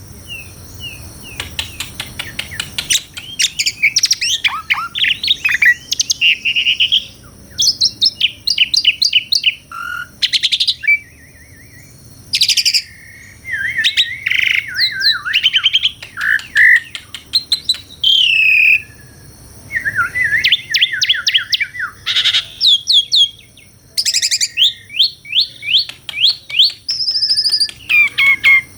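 Asian pied starling (jalak suren) singing a long, varied song. Quick runs of sharp repeated chirps alternate with slurred whistles, in phrases broken by short pauses.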